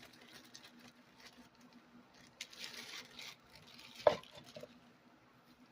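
Faint rustling, crinkling and scraping of food and its takeout packaging as toppings are put on pupusas, with a short, sharper sound about four seconds in.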